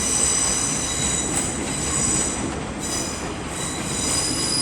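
ScotRail Class 385 electric multiple unit pulling out of the station, its wheels squealing in several high, steady tones over the low rumble of its running gear.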